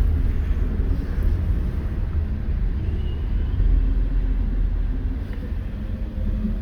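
Steady low rumble of a vehicle driving along.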